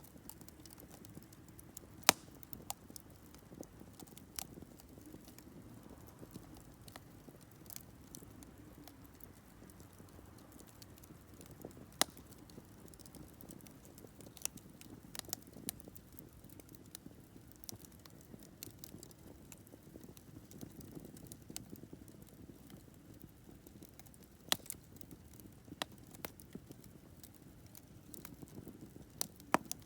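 Campfire burning with scattered crackles and sharp pops over a faint low rush of flame. The loudest pops come about 2 and 12 seconds in, and a few more near the end.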